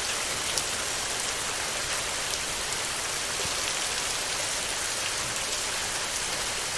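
Steady heavy rain drumming on a metal roof, a dense even hiss with fine drop ticks through it.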